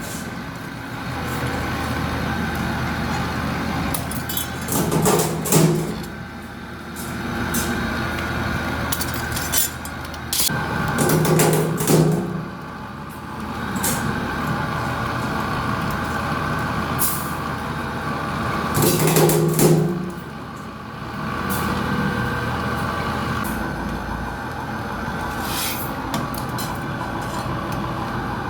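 Hydraulic press cutting machine running with a steady motor hum, with three louder press strokes several seconds apart and scattered sharp metal clicks.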